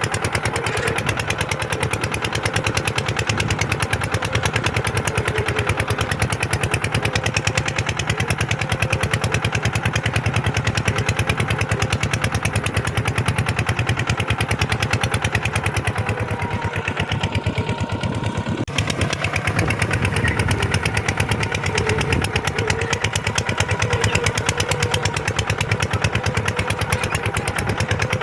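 Kubota tractor's diesel engine running steadily with a rapid, even firing beat. About two thirds of the way through, the higher part of the sound dips for a moment and there is one sharp knock.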